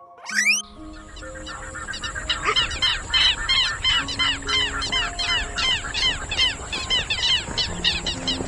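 A flock of birds calling in quick, repeated chirps, about four or five a second, over soft background music and a steady high hiss. The calls cut off suddenly at the end.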